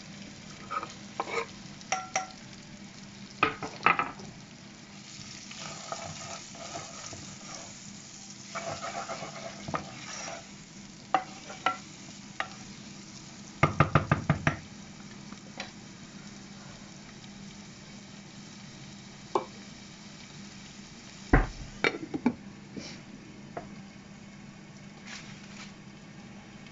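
Chopped onions frying and sizzling in hot oil in a saucepan as a spoon stirs them, with scattered clicks of the spoon against the pan and a quick run of rapid taps about fourteen seconds in. A thud comes about twenty-one seconds in, over a faint steady hum.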